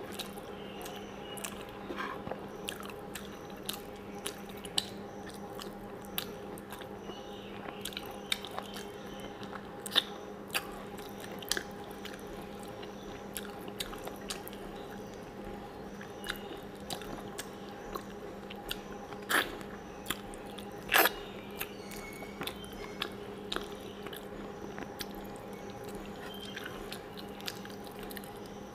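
Close-miked eating: wet chewing and lip smacks, with irregular sharp clicks, as a mouthful of rice and mutton curry is eaten by hand. A steady low hum runs underneath.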